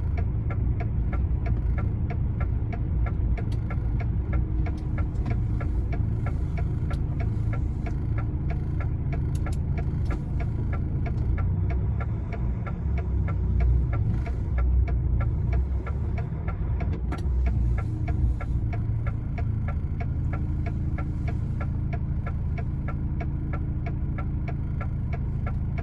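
Lorry's diesel engine running at low revs, heard from inside the cab, with a steady fast ticking over it.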